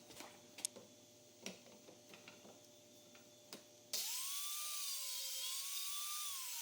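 A few faint clicks and knocks, then about four seconds in a Mafell dowel-drilling machine's motor starts with a high whine. Its pitch dips and rises as it bores dowel holes in the wooden panel.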